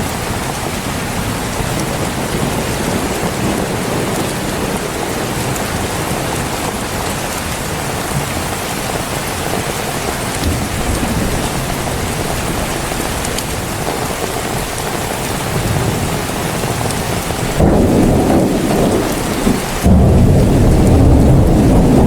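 Heavy rain falling steadily. About two-thirds of the way through, a loud, low thunder rumble sets in, breaks off for a moment, then rolls on louder.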